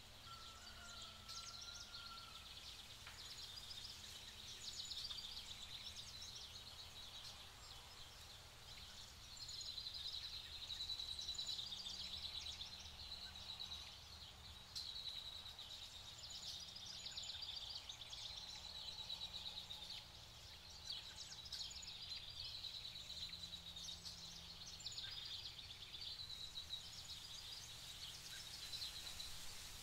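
Many small birds chirping and twittering continuously in a high register, with a brief whistled call about a second in, over a steady low background hum.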